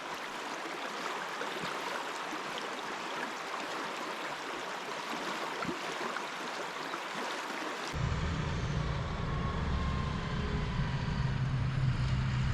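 Steady rushing hiss like a stream until a cut about eight seconds in, then a motorcycle engine idling with a steady low hum.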